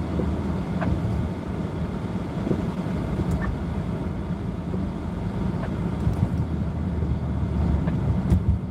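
Road noise of a car driving, heard from inside the cabin: a steady low rumble of engine and tyres.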